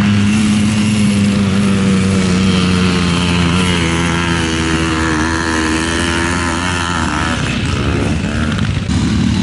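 Trials motorcycle engine pulling a rider up a steep grassy hill. Its note holds steady, then sinks slightly in pitch before breaking off about seven seconds in. Another engine note comes in near the end.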